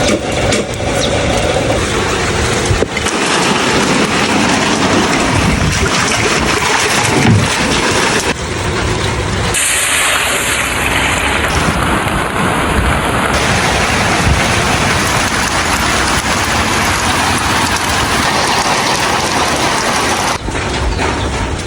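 Heavy rain falling steadily, a dense, loud hiss that shifts in texture at a few abrupt cuts.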